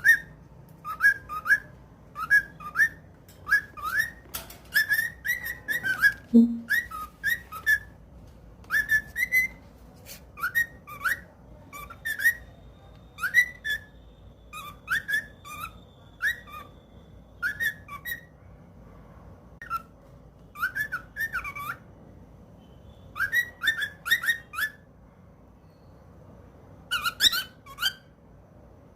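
Pet bird chirping: short rising chirps in quick runs of two to four, repeated every second or so with a few longer pauses.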